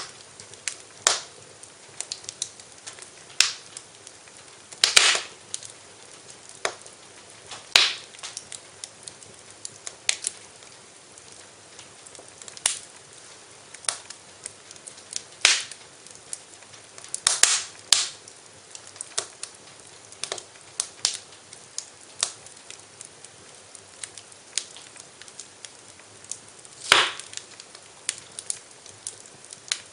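Wood fire in a fireplace crackling, with irregular sharp pops over a soft hiss; a few pops are much louder, one of the loudest near the end.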